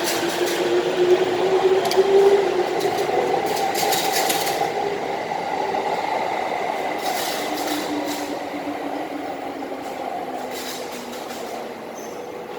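E231-series electric commuter train pulling away from the station: the traction motors whine as it accelerates, with clusters of wheel clicks and knocks over the rail joints. It grows fainter as it leaves.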